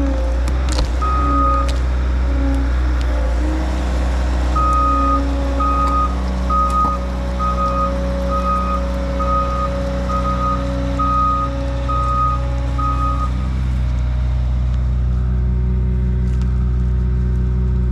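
Skid steer engine running steadily while its backup alarm beeps: once about a second in, then a run of about a dozen evenly spaced beeps, a little more than one a second, as the machine reverses. The beeping stops a few seconds before the end while the engine runs on.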